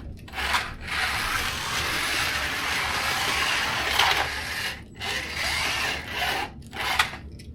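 Carrera GO!!! slot cars racing on plastic track: small electric motors whirring and the cars rattling through the lanes, the noise rising and falling as they come and go. A sharp clack near the end as a car flies off the track.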